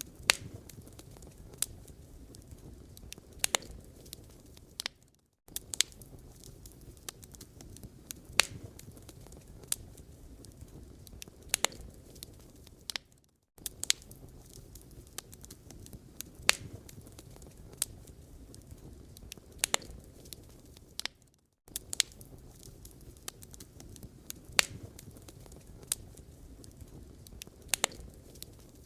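Wood fire burning in a fireplace, crackling and popping irregularly over a low rumble. The sound drops out briefly about every eight seconds, three times.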